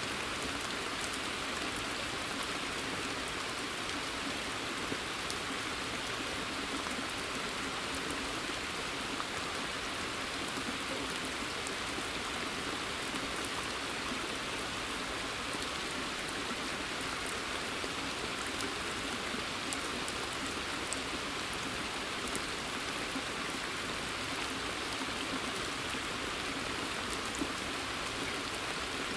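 Steady rain falling in woodland, an even hiss of rainfall with many scattered individual drops ticking throughout.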